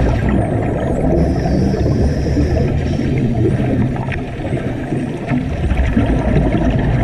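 Steady, low rumbling and gurgling water noise, with a thin high whistle-like tone from about one to three seconds in.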